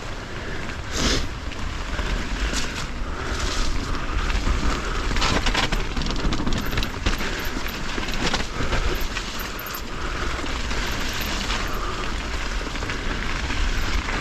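Mountain bike ridden along a rough trail, heard through an action camera's microphone: wind buffets the mic with a heavy rumble over tyre noise, and the bike clatters many times over bumps.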